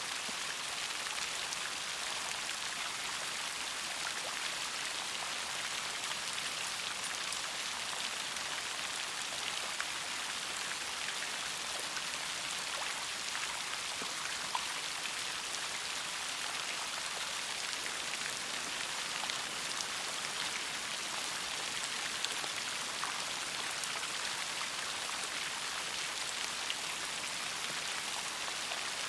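Steady rainfall, a constant hiss of rain with scattered individual drops ticking on a surface.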